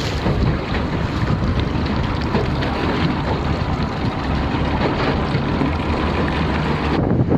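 Boat travelling across the water, with wind buffeting the microphone in a dense, steady rush. The high hiss drops away abruptly near the end.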